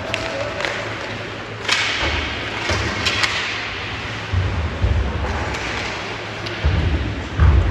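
Ice hockey play: several sharp clacks of sticks and puck, then dull low thuds, the loudest near the end.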